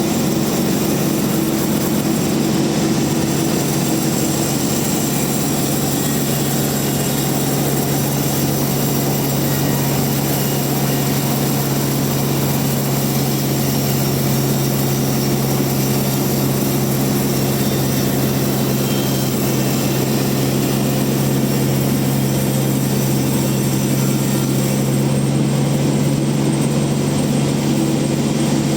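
Band sawmill running steadily, a constant machine hum with a few low steady tones and a broad hiss above them.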